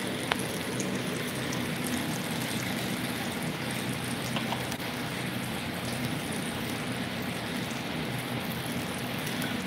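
Steady crackling sizzle of food frying on a hot cooking surface, with a faint low hum underneath.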